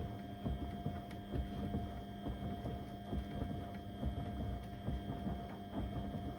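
Beko WM74135 washing machine's drum turning during the wash with a load of door mats: a steady motor whine with irregular knocks and thuds from the tumbling mats.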